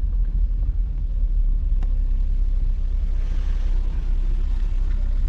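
Steady low engine and road rumble inside a moving car, with one sharp click about two seconds in.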